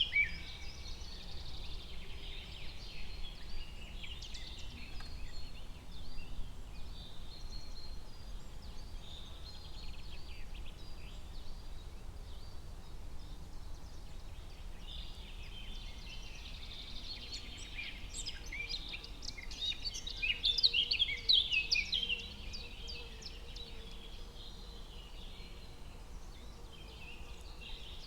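Forest ambience of songbirds chirping and trilling, with a busier, louder stretch of birdsong about two-thirds of the way through, over a steady low rumble.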